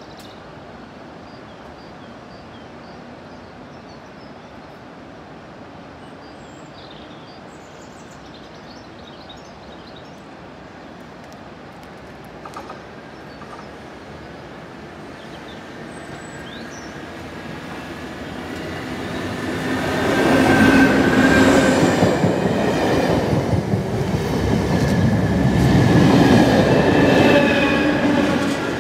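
A pair of GBRF Class 73 locomotives on a test train approaching and passing close by at speed. For the first half only faint birdsong is heard. Then the train noise builds and turns into a loud passing rumble with a steady hum and whine, loudest twice a few seconds apart.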